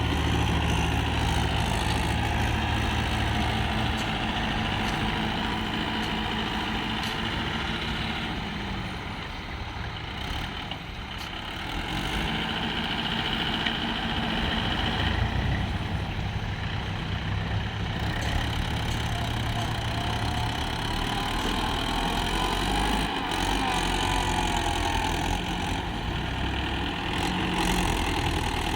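Swaraj tractor's diesel engine running while hauling a trolley loaded with sand. The engine eases off around nine seconds in and picks up again about three seconds later.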